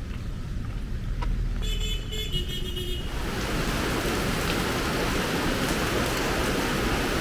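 A vehicle horn sounds for about a second, its pitch stepping down partway. From about three seconds in, steady heavy rain hiss fills everything, over a low rumble that runs throughout.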